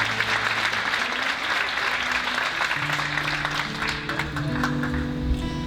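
Audience applauding over soft instrumental background music with held notes; the clapping dies away about four seconds in, leaving the music.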